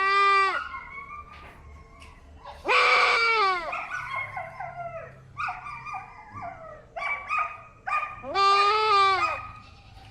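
Goat bleating loudly and plaintively. There are three long bleats, at the start, about three seconds in and about eight seconds in, each dropping in pitch as it ends, with softer, broken bleats between them.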